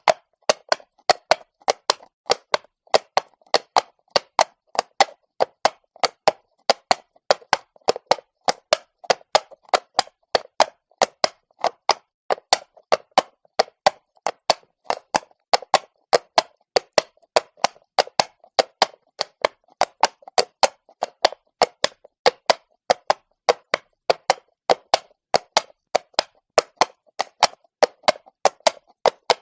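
Horse's hooves striking stone cobbles at a walk: an even, unbroken clip-clop of sharp knocks, about three to four a second.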